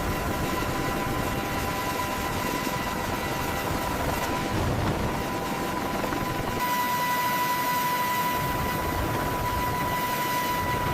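Helicopter running steadily: a rushing rotor and engine noise with a high, steady turbine whine. The whine comes up louder about two-thirds of the way through.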